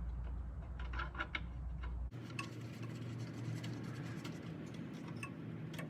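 Scattered light clicks and scrapes of hand work on a new brake hose fitting as the hose end is worked into the brake cylinder, over a low steady hum.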